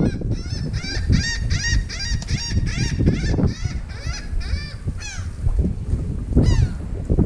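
A bird calling: a rapid series of short, rising-and-falling notes, about five a second, for some four seconds, then two longer falling calls, over a low rumble.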